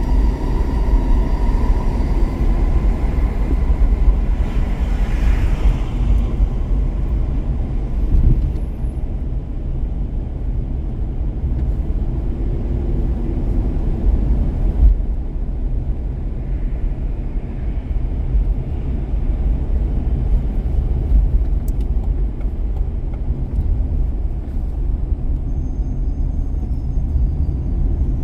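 A car driving on the road: steady low road and engine rumble, with a faint high whine in the first couple of seconds.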